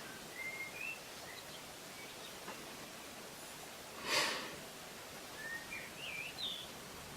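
Faint bird chirps, short high whistles that rise and fall, early on and again after about five seconds, over a quiet steady hiss. One brief soft swish about four seconds in.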